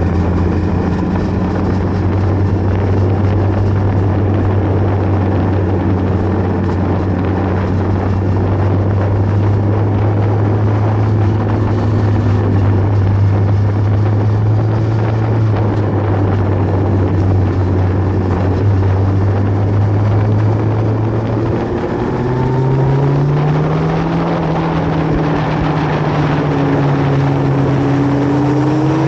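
Superbike engine running at a steady pace under a rush of wind noise; about three-quarters of the way through, the engine note steps up and climbs as it accelerates.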